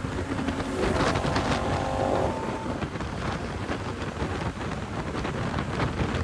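Ducati Diavel motorcycle running at highway speed, heard as a steady low rumble under heavy wind buffeting on a chest-mounted camera's microphone. A brief higher whine sounds from about a second in to just past two seconds.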